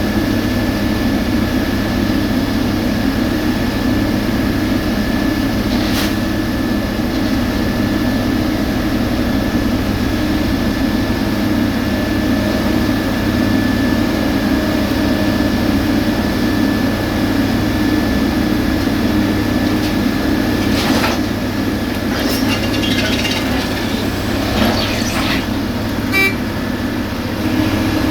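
Heavy road-construction machinery running steadily: a constant engine drone with a steady high whine over it. There is a sharp click about six seconds in and scattered clatter and ticking near the end.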